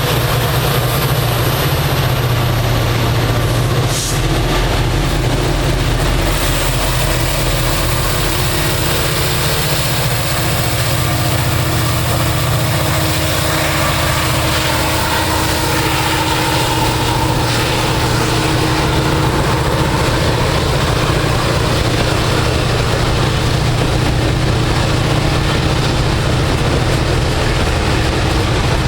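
Multiple diesel-electric freight locomotives running together as a heavy Norfolk Southern freight passes, a steady, loud, low engine rumble.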